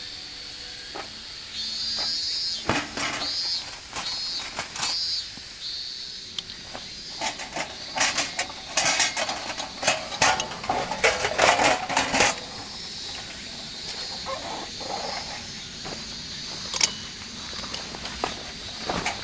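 Metal camp gear being handled: clinks, knocks and clatters, busiest about halfway through.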